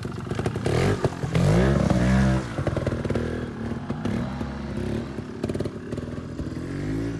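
Trials motorcycle engine revved hard about a second in, the pitch rising and then dropping, then running at low revs with short throttle blips.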